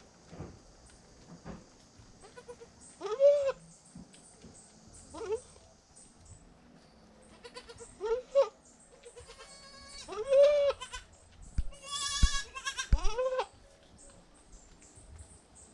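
Newborn goat kids bleating: about five short, high calls spaced a few seconds apart, each rising then falling in pitch. A few dull knocks come near the end.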